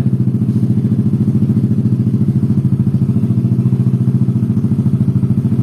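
Yamaha NMAX's single-cylinder 155 cc four-stroke engine idling steadily with even pulsing through a freshly fitted aftermarket racing exhaust.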